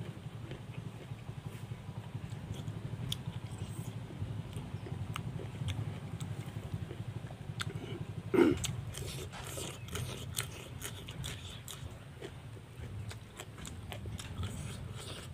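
Close-miked chewing and wet mouth sounds of a person eating, with small clicks and lip smacks throughout and one louder, short mouth sound about eight seconds in.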